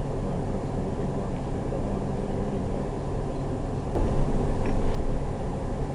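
Steady low vehicle engine hum heard from inside a car, with a dull thump about four seconds in.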